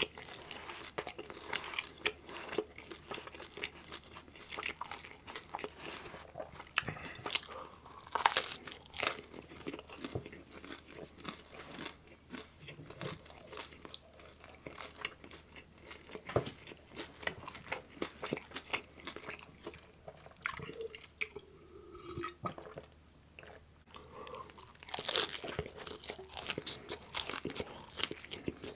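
Close-miked chewing and crunching of meat-loaded pizza, with wet mouth sounds and crust crackle. The sounds thin out for a few seconds past the middle, then come back loud with a fresh bite.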